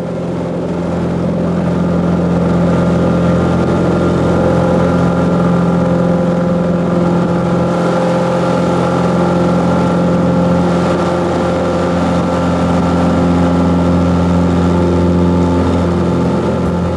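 Cessna 182's piston engine and propeller running at high power, a steady drone that swells over the first couple of seconds and then holds, as for the takeoff run.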